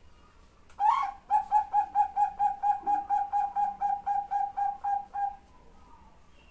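Female zebra dove (perkutut bangkok) calling: one opening note, then a rapid, even series of about eighteen short clipped notes at one pitch, four to five a second, given to call a male.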